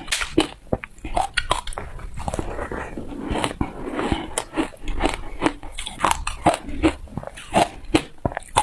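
Close-up crunching of ice being bitten and chewed: a rapid, irregular run of sharp cracks and crunches, several a second.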